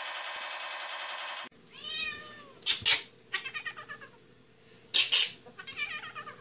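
A fast, dense rattle that cuts off abruptly about a second and a half in, then a house cat meowing several times. The arching meows are broken by short, sharp, loud bursts twice, and quieter trilling calls come between them.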